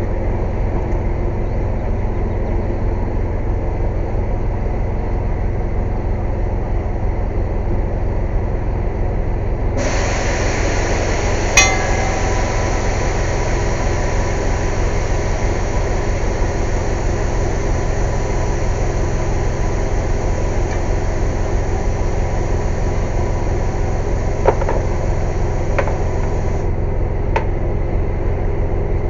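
An air compressor runs with a loud, steady drone. About ten seconds in, a hiss of rushing air starts and keeps on until it cuts off suddenly near the end. A sharp metallic clink comes soon after the hiss begins, and a single knock follows later.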